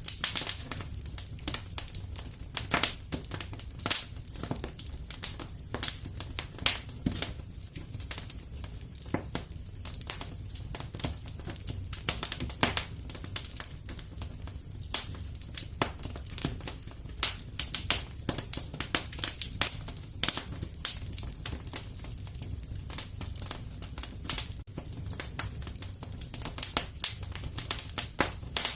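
Wood fire crackling and popping in a fireplace: frequent irregular sharp snaps over a steady low rumble of the flames.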